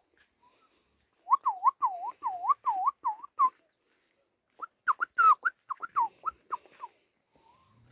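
Puppies whimpering in two quick runs of high, squeaky whines, about four or five a second, with a pause between the runs.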